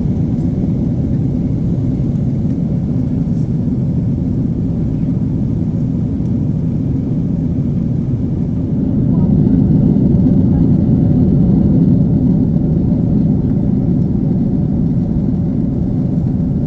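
Steady rumble of engines and rushing air inside the Boeing 777-300 airliner's cabin. It grows a little louder about nine seconds in and eases back a few seconds later.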